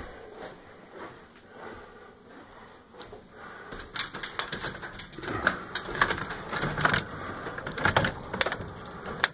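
Footsteps going up stairs: a quiet start, then irregular clicks and knocks, several a second, from about four seconds in.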